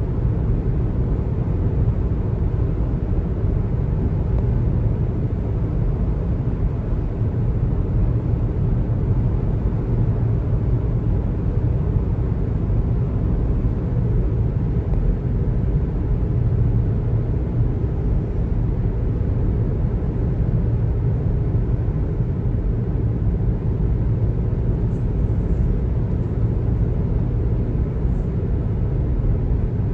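Steady road noise from a car being driven: a low, even rumble of tyres and engine, with no sudden sounds.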